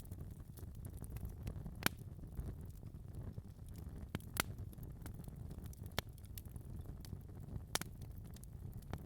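Wood fire burning in a fireplace: a low rumble of the flames with irregular sharp crackles and pops, the loudest a few seconds apart.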